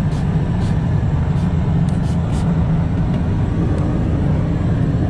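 Steady low drone of an Airbus A330-300 airliner in flight, heard inside its lavatory, with a few faint light clicks.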